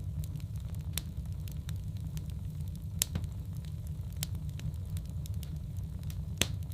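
Wood fire burning in a fireplace: logs crackling with irregular sharp pops, the strongest about a second in, at three seconds and near the end, over a steady low rumble.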